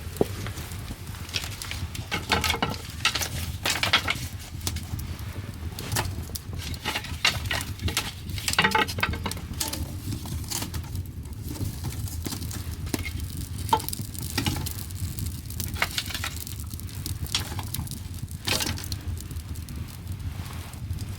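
Firewood burning in the firebox of a wood-fired bath, crackling and popping at irregular intervals over a steady low rumble.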